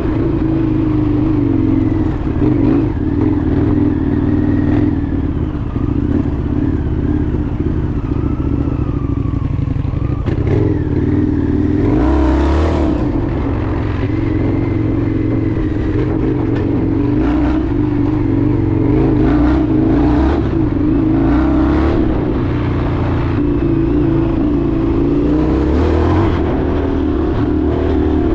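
Indian FTR 1200's V-twin engine running steadily while the motorcycle is ridden, the engine note swelling briefly a couple of times.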